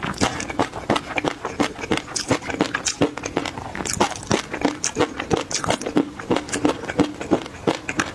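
Close-miked chewing of peanut sauce with the mouth closed: a dense, steady stream of small wet clicks and crackles, several a second.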